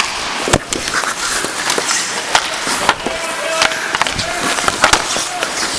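Ice hockey play: skate blades scraping and carving the ice in a steady hiss, with repeated sharp clacks of sticks and puck. A few short shouts from players come through around the middle.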